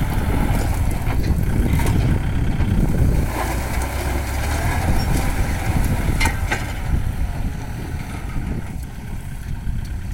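Kubota farm tractor's diesel engine running steadily while working the field, with two short sharp knocks about six seconds in.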